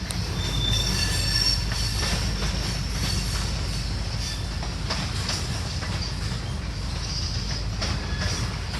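Train rolling on the rails: a steady low rumble, with high thin wheel squeal coming and going and occasional sharp clicks.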